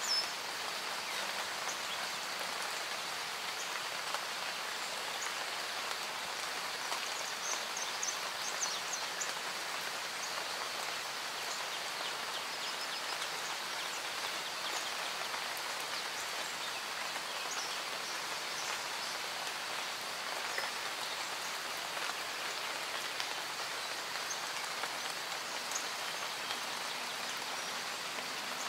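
Recorded rain ambience: steady rain falling, an even hiss. A few faint high chirps come through about eight seconds in.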